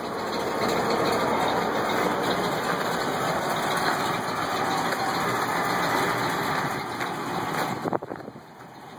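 The 1988 Ford F-350's 351 Windsor V8 idling steadily, then much quieter about eight seconds in.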